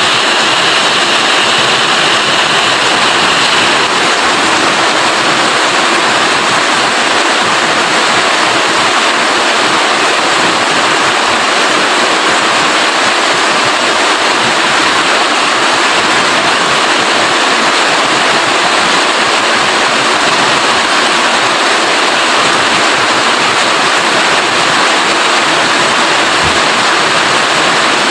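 Steady heavy rain falling, a constant dense hiss.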